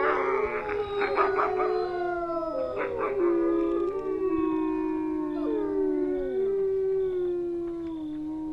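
A wolf pack howling in chorus: several long, overlapping howls sliding slowly up and down in pitch, with rough yips and barks breaking in at the start and again about three seconds in.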